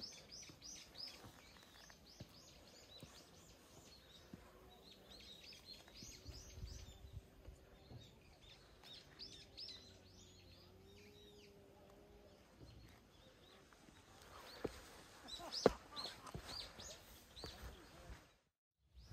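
Small birds chirping in quick flurries over quiet outdoor ambience, with a few sharp knocks near the end; the sound cuts out briefly just before the end.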